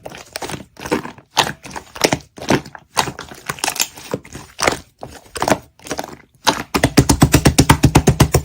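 Clay being pressed and squished through slime, making irregular sticky clicks and crackles. About two-thirds of the way in, these give way to a fast, even run of clicking pops, roughly ten a second.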